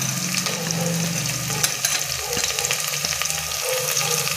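Chopped onion, green chillies and curry leaves sizzling and crackling in hot mustard oil in an aluminium pressure cooker, stirred with a steel ladle that clicks against the pan a few times.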